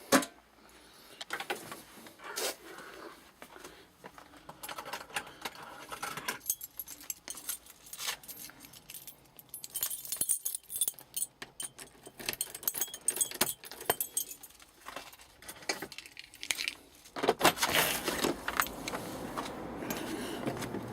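Irregular light clicking, rattling and jangling from handling and moving through a cluttered room, becoming louder and more continuous near the end.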